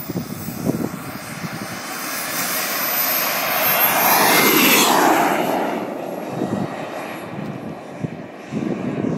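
Radio-controlled model F-16 jet flying past: its engine's rushing sound swells to a peak about halfway through, sliding down in pitch as it passes, then fades away.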